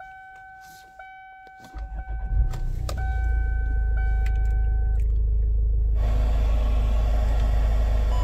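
Kia Sportage engine being started: a steady warning chime sounds with the ignition on, the engine cranks and catches about two seconds in, then settles into a steady idle. About six seconds in, a hiss comes in over the idle.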